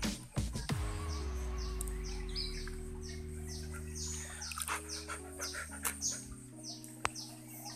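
Bird calls repeating as short, falling chirps, a few a second, over soft background music of held low chords. A few sharp knocks and splashes in the first second come from the plastic bottle trap being handled in shallow stream water.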